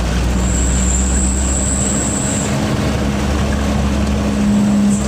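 Truck engine running steadily under way, a low hum and rumble. A thin, high-pitched whine sounds over it for about two seconds, stopping near the middle.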